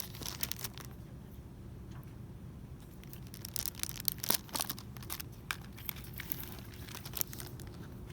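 Plastic packaging crinkling in irregular crackly clusters, busiest in the middle, over a steady low background hum.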